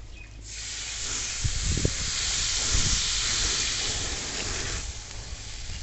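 Chicken soup stock poured into a hot tawa, hissing loudly on contact with the hot pan. The hiss starts about half a second in and cuts off just before the end.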